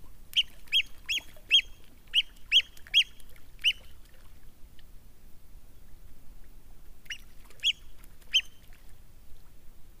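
A bird tangled on the river gives a quick series of short, sharp, high calls, about eight in three and a half seconds, then three more a few seconds later.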